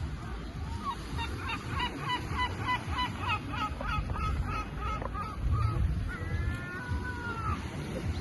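A large bird calling: a quick run of short, repeated calls, about three a second, then one longer drawn-out call near the end, over a steady low rumble.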